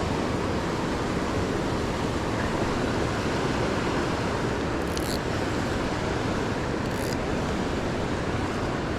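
Steady rushing noise of wind and water, strongest in the low rumble, with two brief high ticks about five and seven seconds in.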